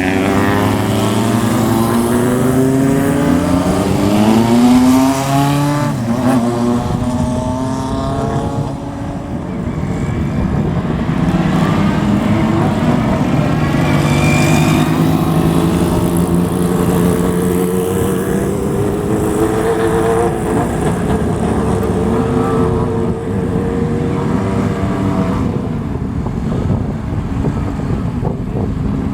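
Several motorcycles riding off one after another, engines revving up with rising pitch in the first few seconds, then more bikes running and pulling away with overlapping, steadier engine notes.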